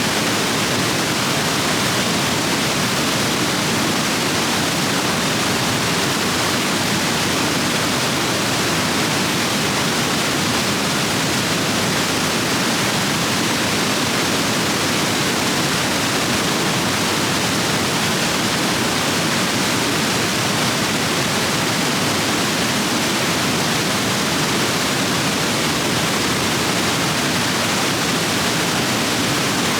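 Rushing rapids of a rain-swollen stream: a steady, dense roar of white water.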